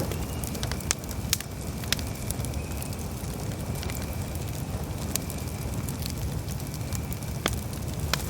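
Campfire crackling: irregular sharp pops and snaps, a few louder than the rest, over a steady low rumble of the burning wood.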